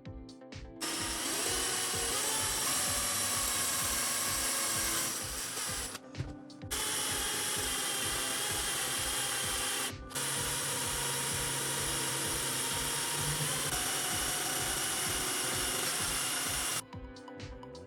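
A power tool running steadily in three long stretches, with a short break about six seconds in and a brief one about ten seconds in; it starts just under a second in and stops about a second before the end.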